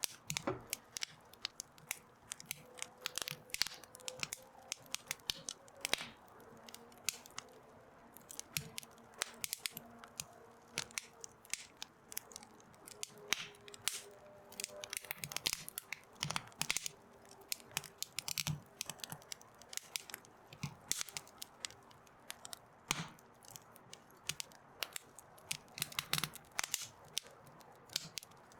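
Wood fire crackling, with sharp pops and snaps coming irregularly throughout.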